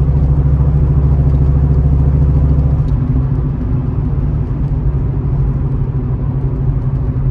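2002 Mustang GT's 4.6-litre V8 running with no mufflers, a steady deep exhaust drone heard inside the cabin while driving. About three seconds in the deepest part of the drone drops away and the engine note eases slightly.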